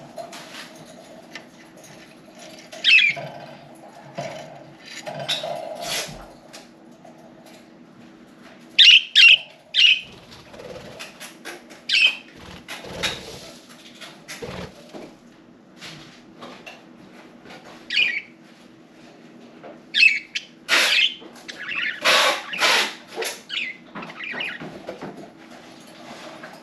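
Pet budgerigars chirping in short, scattered calls, busiest about a third of the way in and again near the end, with sharp clicks and wing-flutter noises among them.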